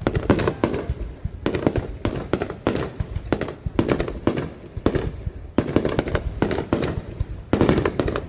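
Aerial fireworks going off in a rapid barrage: clusters of sharp bangs and crackles follow one another about every second.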